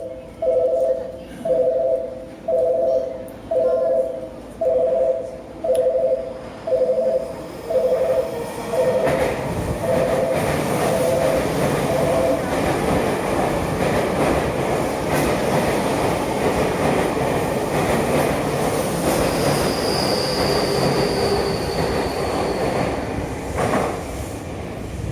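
A two-tone station warning chime pulsing a little faster than once a second. Then a Tokyu 5050 series electric train passes through the station without stopping, its rumble building about nine seconds in, with a high whine for a few seconds in its second half.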